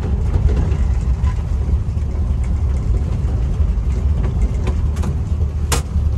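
1967 Willys Rural's six-cylinder engine running, a steady low rumble, with a single sharp click near the end.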